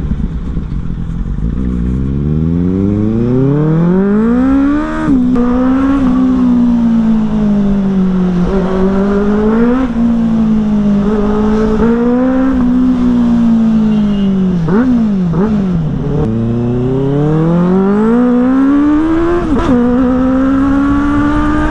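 Benelli motorcycle engine through a modified, loud exhaust, revving up over the first few seconds and then holding a high steady note. Its pitch wavers and dips sharply a few times before climbing again.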